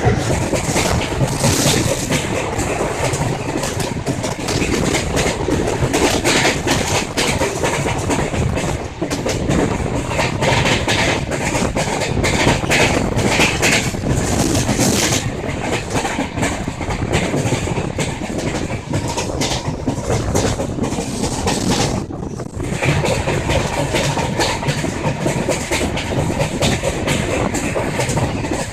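Passenger train running at speed, heard from aboard a coach: a steady rumble of wheels on rail with a rapid clickety-clack over the rail joints. The noise thins briefly about three quarters of the way through.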